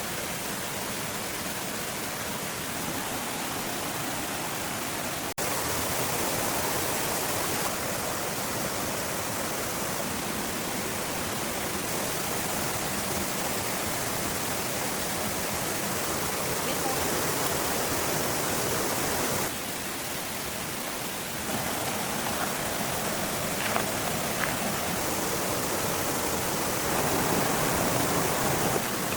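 Steady rushing noise, like running water, that shifts abruptly in level a few times, with a few faint ticks near the end.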